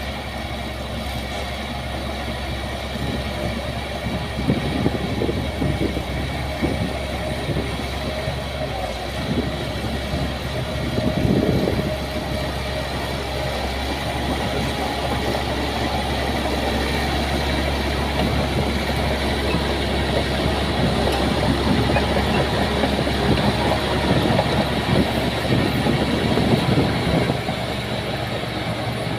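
Heavy diesel earthmoving machinery running steadily, with rattling and clattering. It surges louder about five seconds in, again around eleven seconds, and for a stretch in the second half.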